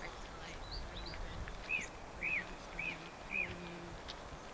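A small bird calling in open country: four short, clear arched notes about half a second apart, with a few fainter, higher chirps just before them.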